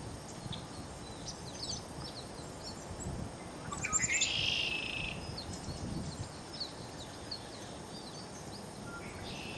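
Songbirds at a feeder chirping and calling in quick short notes. About four seconds in, one louder song comes: a few falling notes, then a buzzy trill lasting about a second.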